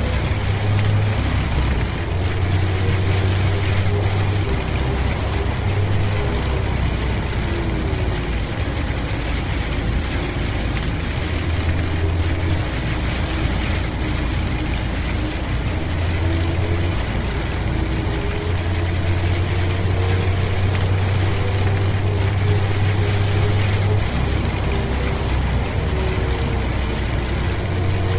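Car driving in rain: a steady low engine and road rumble with a faint, slowly shifting engine hum, under an even hiss of rain and wet road.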